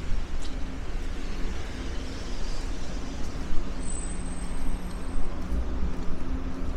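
City street traffic: motor vehicles running by with a steady low rumble and engine hum, and a brief high thin tone about four seconds in.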